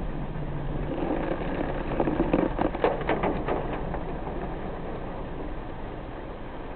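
Steady rain and road noise heard from inside a moving car. A louder swell with a quick run of sharp cracks comes about two to three and a half seconds in.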